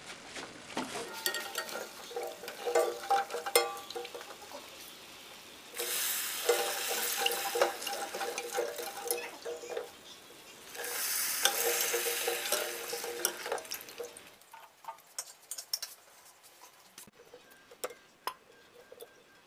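Hot fried jilapi sizzling in sugar syrup in a steel pot, in two spells of a few seconds each, with light clinks of a spoon and fork against the pot.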